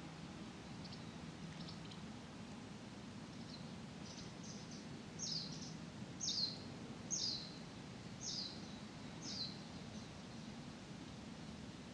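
A bird calling: a few faint notes, then a run of about six short, sharply falling whistled notes roughly one a second, over a steady low hum of distant background noise.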